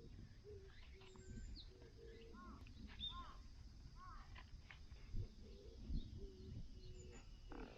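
Wild birds calling: repeated short low cooing notes and a few short arched chirps, faint, over a low background rumble.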